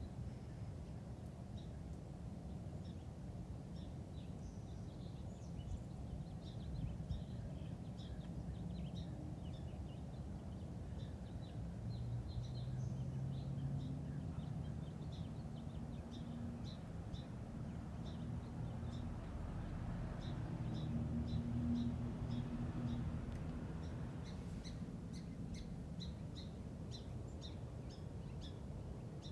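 Small birds chirping: many short, high chirps repeating through the whole stretch and coming thicker near the end, over a steady low rumble that swells and carries a faint hum in the middle.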